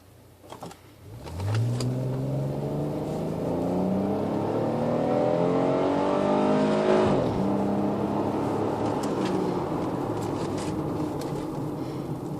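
Chrysler 300C's 3.5-litre V6 through a Magnaflow exhaust with the resonator removed, accelerating hard: the exhaust note climbs steadily in pitch, drops suddenly about seven seconds in, then holds a lower steady note that slowly fades.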